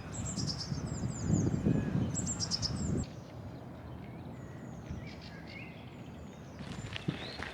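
Small songbirds chirping and singing in quick repeated phrases, over a loud low rumble through the first three seconds that cuts off abruptly. After that, fainter scattered bird calls.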